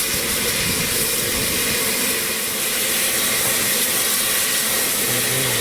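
Steam locomotive letting off steam: a loud, steady hiss that does not let up.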